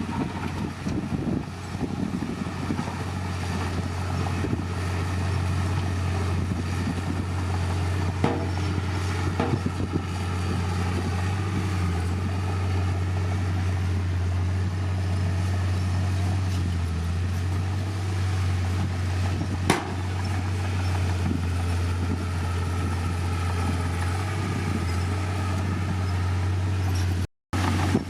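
Heavy diesel earthmoving machinery running steadily with a deep, constant engine drone, and a few sharp metallic knocks, the clearest about two-thirds of the way through. The sound cuts out briefly near the end.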